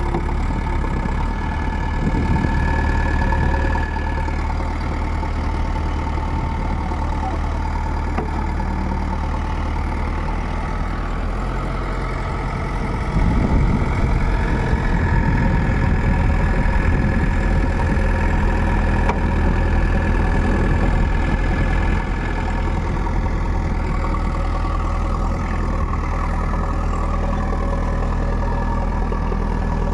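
Heavy machine's diesel engine running steadily near idle, growing louder for about nine seconds in the middle.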